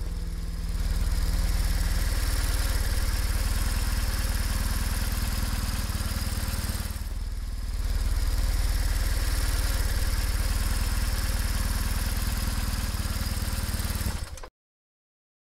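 BMW motorcycle engine running steadily on the move, with a steady rushing noise over it. The sound dips briefly about seven seconds in and cuts off abruptly near the end.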